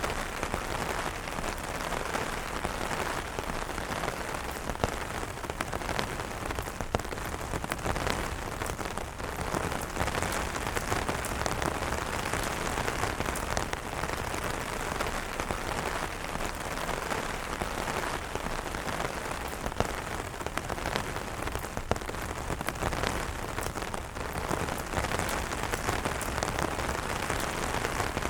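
Steady rain pattering on umbrella fabric, a dense even patter with frequent sharper drop ticks.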